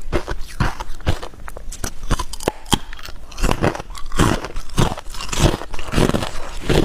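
Hard clear ice being bitten and chewed close to the microphone: repeated sharp crunches and cracks, several a second, with crackling grinding between bites.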